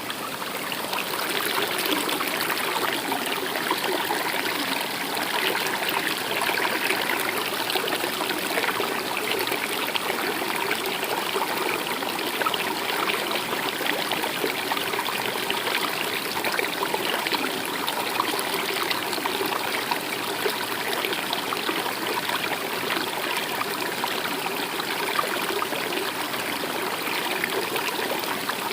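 Stream water running and trickling steadily, fading in over the first couple of seconds.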